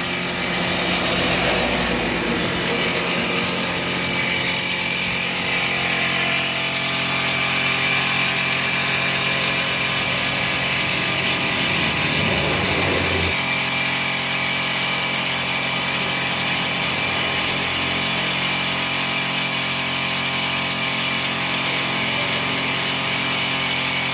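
Small petrol engine of a portable pressure washer, running steadily at constant speed.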